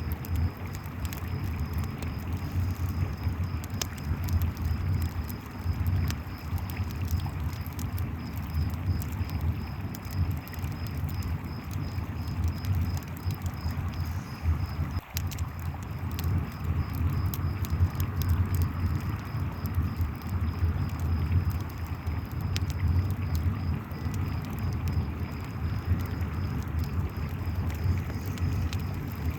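Campfire crackling with scattered sharp pops over the deep steady rush of a river, while crickets chirp in a steady pulsing trill.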